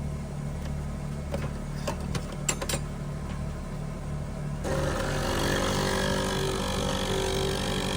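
A steady, low mechanical hum with a few sharp clinks of cooking utensils in the first half. A little past the middle the hum turns fuller and brighter.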